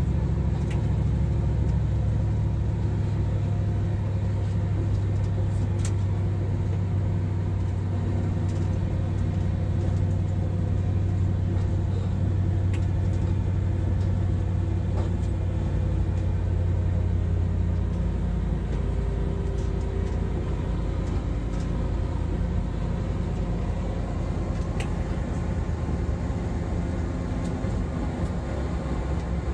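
Train running, heard from the driver's cab: a steady low rumble with a held low hum that eases about two-thirds of the way through, and a few faint sharp clicks.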